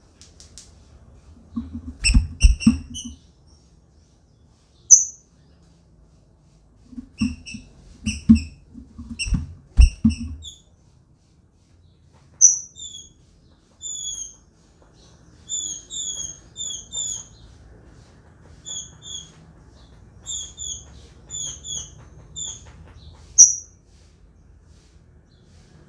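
Female green-winged saltator (trinca-ferro) giving short, sharp, high call notes, some single and some in quick runs of three to five, which breeders call piado. Low thumps and rattles come about two seconds in and again between about seven and ten seconds in, the bird moving on the wooden perches of its cage.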